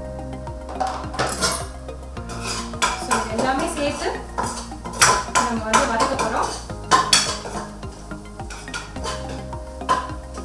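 A metal spoon stirring and scraping thick tomato-onion masala around a nonstick kadai, with repeated clinks and scrapes against the pan.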